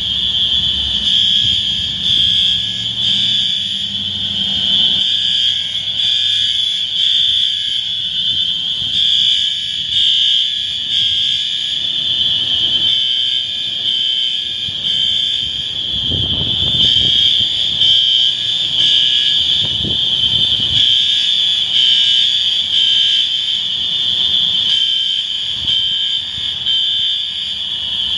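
Building alarms sounding nonstop, a loud, steady high-pitched electronic tone that wavers slightly. A low rumble swells twice about two-thirds of the way through.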